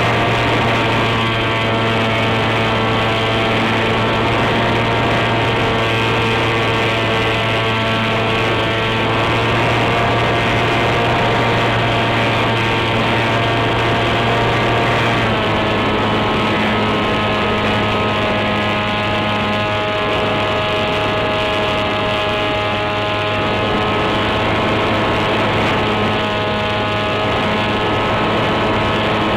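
Brushless electric motor (NTM Prop Drive 28-26, 1200 kV) on an RC flying wing, spinning an 8x6 propeller with a steady multi-tone whine. Its pitch drops a little about halfway through.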